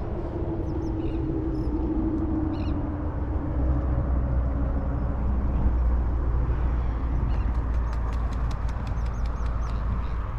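A steady low outdoor rumble with a few short bird calls, two clear ones in the first three seconds and fainter high chirps later on.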